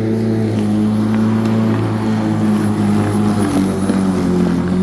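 Black & Decker 1800 W electric rotary lawnmower running steadily, its motor and blade under load in wet grass. The pitch sags a little about three and a half seconds in, then picks up again near the end.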